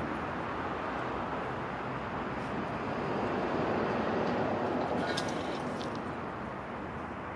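Surf on a sandy beach: a steady rushing wash of waves that swells about halfway through and eases off near the end.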